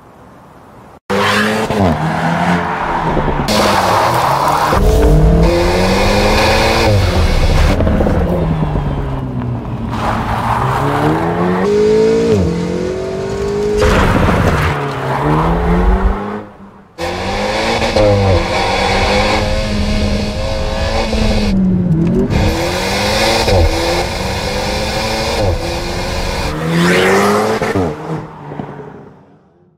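Alpine A110's 1.8-litre turbocharged four-cylinder engine being driven hard, its pitch repeatedly climbing and dropping as it revs through the gears and lifts off. It cuts in suddenly about a second in, drops out briefly about halfway, and fades away near the end.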